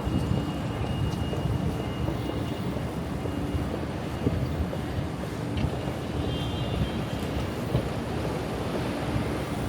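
City street ambience: a steady low rumble of traffic, with a faint engine hum that comes and goes.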